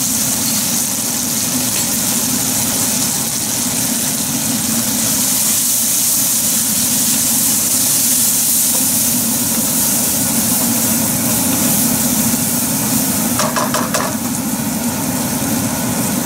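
Soaked red chilies and cumin powder sizzling in oil in a frying pan as a wooden spatula stirs them, over a steady low hum. There is a brief scrape of the spatula on the pan about three-quarters of the way through.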